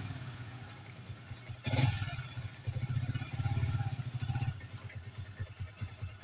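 Yamaha Vixion New LED's single-cylinder four-stroke engine running while the rider tests the clutch. It surges about two seconds in and holds at higher revs for about two seconds, then drops back to a pulsing idle. The bike lacks power and the clutch engages very late, which the owner puts down to worn clutch plates.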